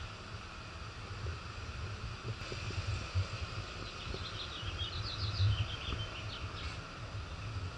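Outdoor ambience with a steady low rumble, and a small bird singing a quick run of high chirps about four to six seconds in.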